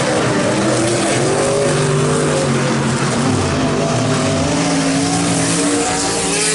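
Several race trucks' engines running together, their pitches rising and falling as drivers lift and get back on the throttle.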